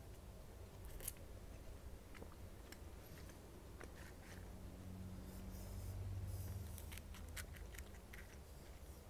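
Close-miked eating sounds of pani puri: soft chewing and small mouth clicks, with light crisp crackles as a fried puri shell is picked up and handled. A low hum rises briefly about halfway through.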